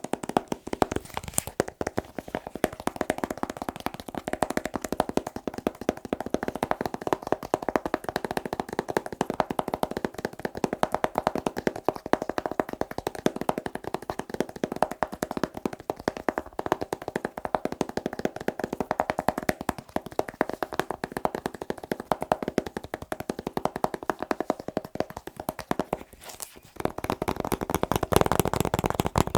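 Rapid fingertip tapping on objects: a dense, continuous patter of quick taps, pausing briefly near the end and then carrying on.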